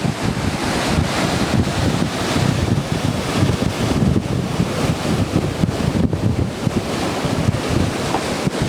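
Wind buffeting the microphone over the continuous rush of breaking surf, high waves raised by a typhoon swell.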